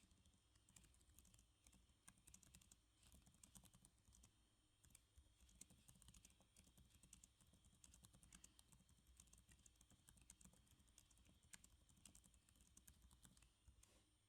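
Faint, irregular typing on a computer keyboard: a steady run of soft key clicks, with a few louder strokes.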